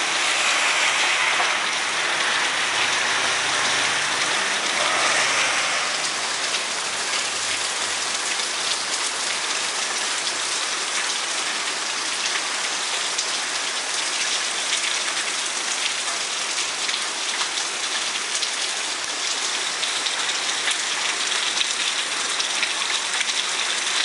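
Steady rain falling on a flat roof, a dense hiss of drops, a little louder for the first six seconds.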